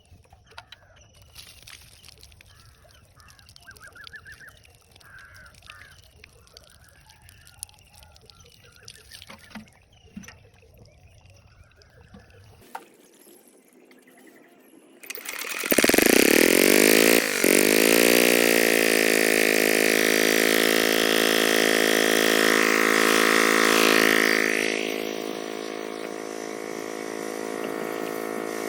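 Old Comet 5 HP diesel engine starting about halfway through, its pitch rising as it catches, then running at a steady speed; the sound drops in level for the last few seconds. Before it starts there are only faint bird chirps.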